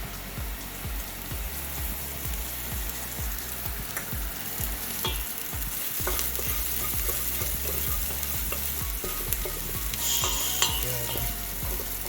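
Chopped onions, garlic and ginger sizzling as they fry in a pan, stirred with a utensil that knocks and scrapes against the pan now and then, most often about four to six seconds in and again near the end.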